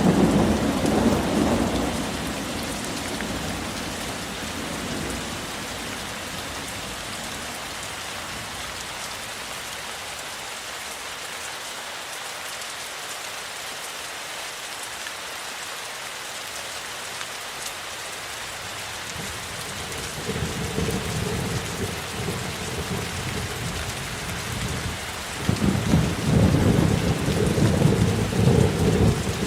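Steady rain falling, with rolling thunder. A rumble at the start fades within about three seconds, and another builds from about twenty seconds in, loudest near the end.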